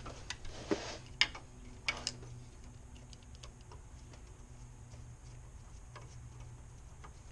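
A few sharp clicks in the first two seconds, then fainter scattered ticks over a low steady hum. These are the small metal-on-plastic sounds of a new coolant hose and its clamp being fitted by hand.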